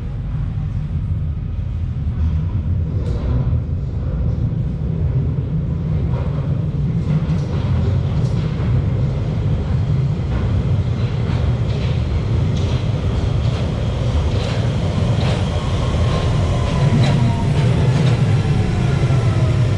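London Underground Central Line train rumbling along the track at Queensway, with wheel clicks over the rails growing more frequent. Near the end a whine slides steadily down in pitch as the train slows.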